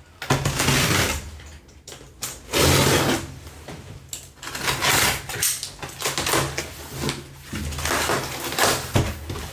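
Irregular scraping, rustling and bumping of cardboard and styrofoam packaging being handled as the microwave is unpacked.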